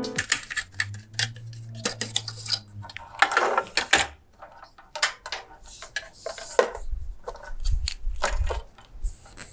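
Irregular clicks and light metallic clatter of hard computer parts being handled and set down, with a brief low hum early on and a few dull thumps later.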